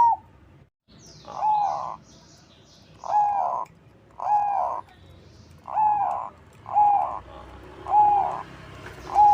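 Crossbred zebra dove (perkutut crossing) cooing: seven low coo notes, each with a slight dip in pitch, roughly a second apart. Faint high chirps of small birds sound in the first few seconds.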